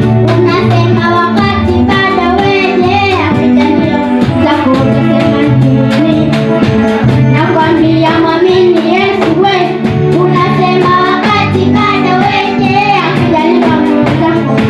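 Church singing group performing a song, with voices over amplified band backing and a pulsing bass line.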